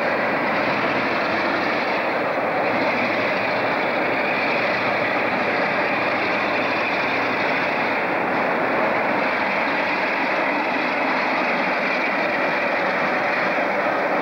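A locomotive-hauled train running through a station, an even, steady running noise with no sharp changes.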